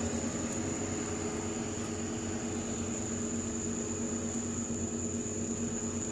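Steady mechanical hum with a thin, high-pitched whine above it, unchanging throughout, with no distinct knocks or clicks.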